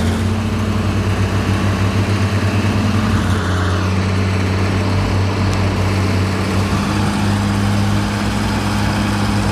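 Heavy diesel engine running steadily and loudly, with a pulsing beat in its sound for the first few seconds before it evens out.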